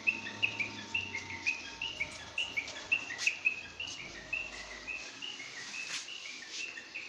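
A bird chirping over and over, short high notes about three a second, with a couple of sharp clicks in between.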